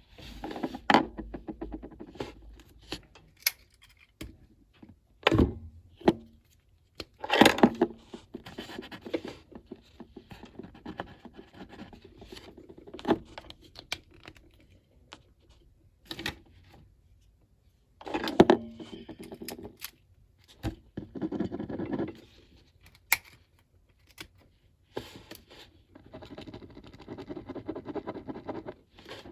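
Coloring on paper: a coloring tool rubbing back and forth in scratchy stretches of a few seconds each, broken by sharp clicks and knocks from the tools being handled and set down.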